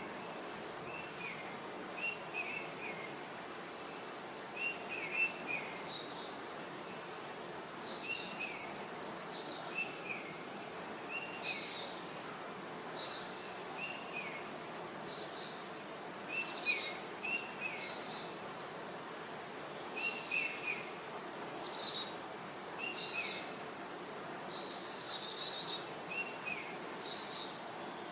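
Several songbirds singing and calling in forest, short repeated phrases every second or two, over a steady rushing background noise.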